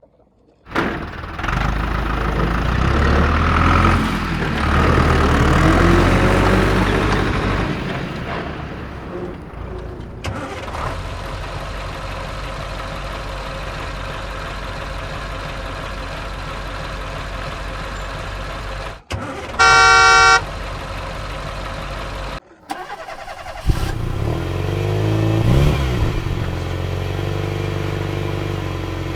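Truck engine sound running steadily, with a horn sounding for about a second around two-thirds of the way through. After a short break the engine sound comes back and revs up and down.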